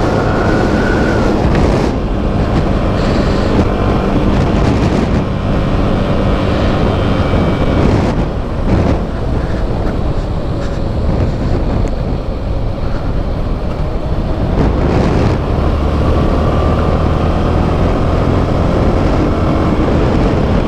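Motorcycle engine running under way, its pitch rising and falling as the revs change, with wind buffeting the microphone.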